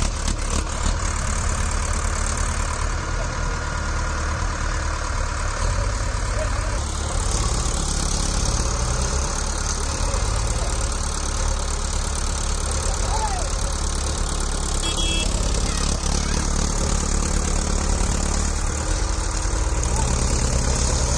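Tractor diesel engine running steadily at a low, even pulse, without revving up.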